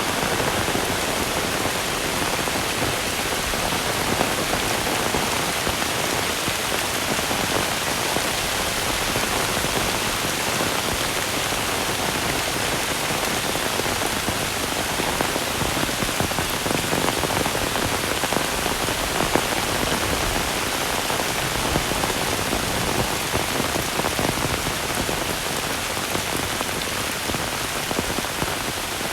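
Heavy rain falling and pattering steadily on surfaces, a dense unbroken hiss with scattered louder drops.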